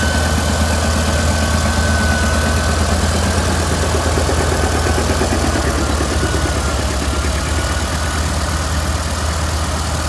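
Old Caterpillar D8 bulldozer's diesel engine running steadily with a heavy, even low rumble, a thin high whine riding over it and fading after about three seconds.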